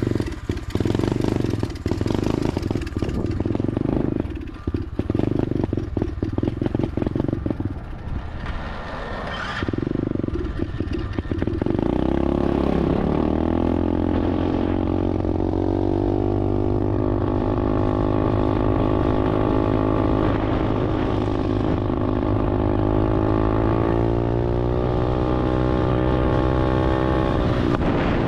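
SSR 125 dirt bike's single-cylinder four-stroke engine, just started, running unevenly with rough, choppy surges, then settling into a steady idle about twelve seconds in. The carburetor, a used one swapped on after the original leaked fuel, still needs adjusting, which the owner blames for the rough running.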